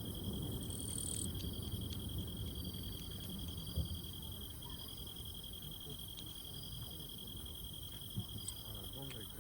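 An insect trilling steadily at one high pitch, breaking off briefly about halfway through, over a low background rumble.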